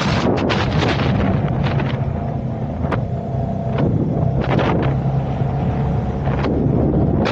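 A vehicle running in traffic: a steady low engine and road hum. Wind buffets the microphone in gusts during the first two seconds and again briefly past the middle.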